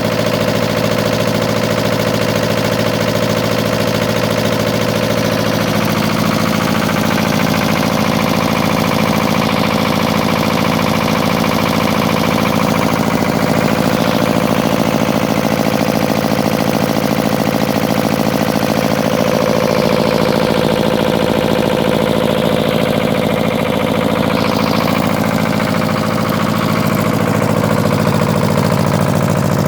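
Lister HA2 two-cylinder air-cooled diesel engine running steadily at a constant speed.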